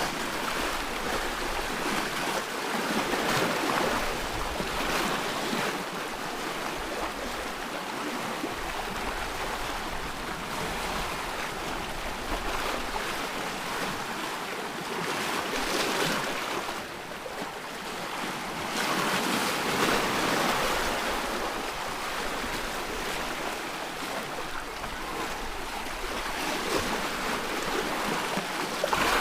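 Ocean surf: waves breaking and washing in, a continuous rushing hiss that swells and eases every few seconds.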